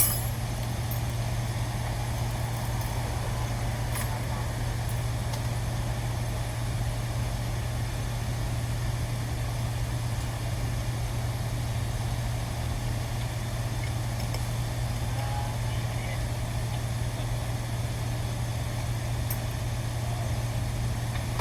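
Steady, unchanging low machine hum, like a motor or engine running at a constant speed, with a single sharp click at the very start.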